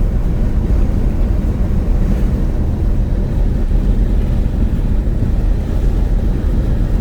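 Steady low rumble of a moving vehicle: road and wind noise, with wind buffeting the microphone.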